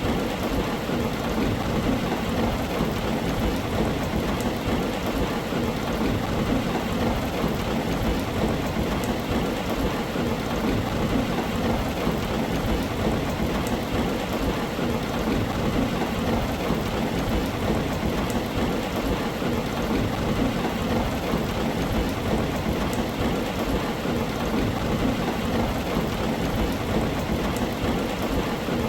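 Steady, even rain on a tin roof, a continuous hiss with no pauses or single loud strikes.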